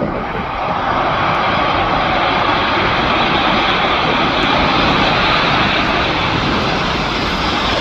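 Aircraft engines running loud and steady, swelling up over about the first second.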